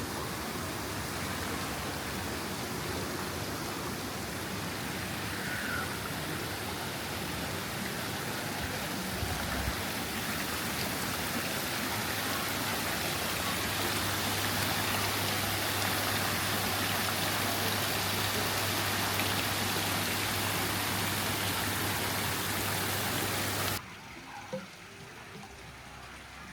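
Steady rushing of flowing, splashing water, which cuts off suddenly near the end, leaving a quieter background.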